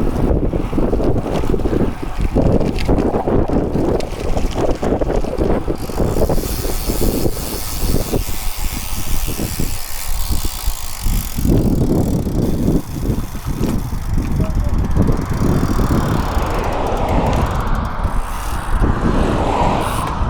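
Wind buffeting the microphone while riding a bicycle at speed, with road and tyre noise underneath. A higher hiss joins for about six seconds midway.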